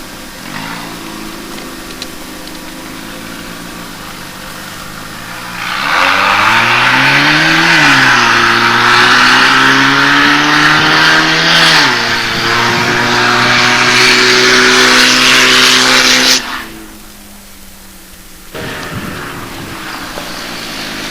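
Ford Festiva 1.3-litre four-cylinder engine in a three-wheeled autocycle, running and driving. It grows much louder about five seconds in, with a rushing noise over it, rises in pitch and falls back, then cuts off suddenly near sixteen seconds and is quieter after.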